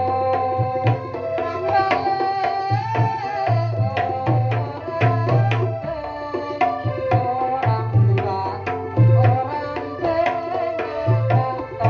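Pencak silat kendang drumming: rapid sharp hand strokes on the drums with repeated deep bass strokes, under a wavering high melody line.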